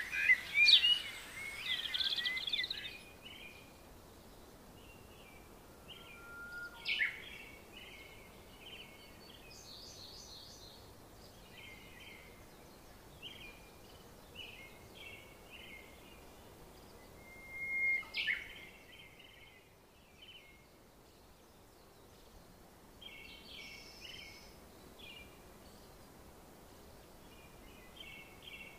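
Small birds chirping and singing in short repeated phrases, over faint outdoor background noise. There is a louder flurry of calls at the start, and sharp single calls about seven and eighteen seconds in.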